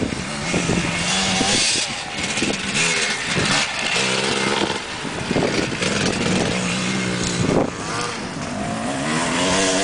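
Off-road motocross motorcycle engine running under load, its pitch rising and dropping back again and again as the throttle is opened and eased.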